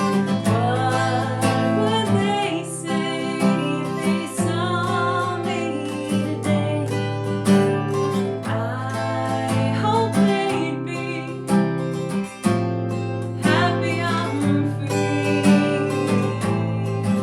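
Acoustic guitar strumming chords in a steady rhythm for a folk/Americana song, with a wavering melody line above the chords.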